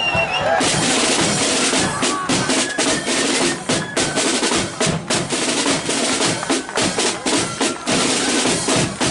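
Marching flute band's drum corps playing: snare drums rattling out rolls over a steady bass drum beat, with the flutes barely present.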